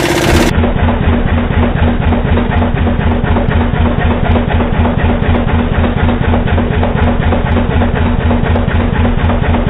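Yanmar SB12 single-cylinder marine diesel running steadily with an even, rhythmic knock, during a long test run after fuel line repair.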